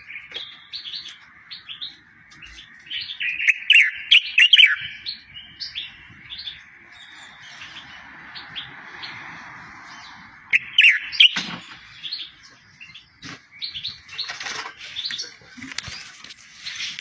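A small songbird singing: a run of short, sharp chirps and quick trills, with a louder burst of phrases several times and a scratchy, hissing stretch about halfway through.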